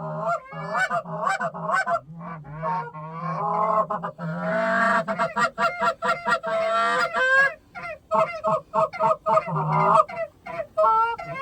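Canada goose honks and clucks, many short notes in quick succession with a longer run of calling in the middle, as geese are called in to the decoys.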